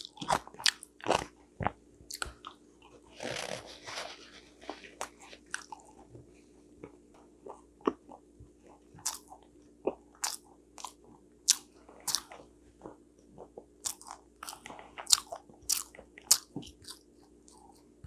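A person chewing sugar-glazed sweet potato chunks (goguma mattang) close to a clip-on microphone: an irregular run of short, wet crunching clicks.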